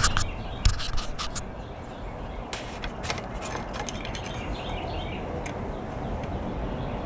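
A run of light clicks and taps, mostly in the first second and a half and again around three seconds in, over outdoor background noise with birds chirping faintly.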